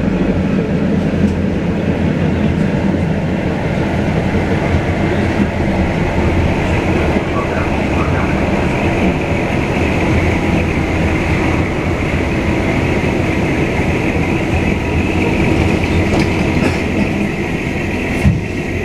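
Konstal tram running along the track: a steady, even rumble of wheels and running gear, with one short knock near the end.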